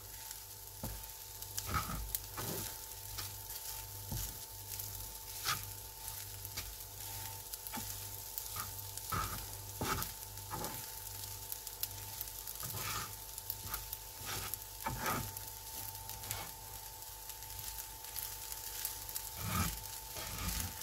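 Bacon-and-garlic fried rice sizzling in a hot pan as it is stirred, with irregular scrapes and knocks of the stirring utensil against the pan.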